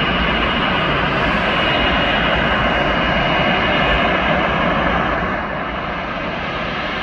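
Jet airliner engines running nearby: a steady roar with a thin high whine over it, easing off slightly about five seconds in.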